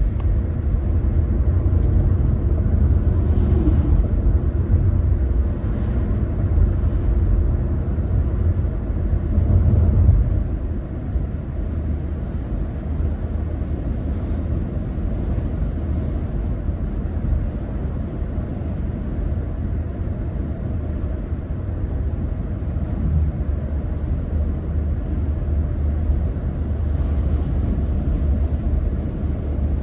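Car driving along: a steady low rumble of road and engine noise, easing slightly about a third of the way in.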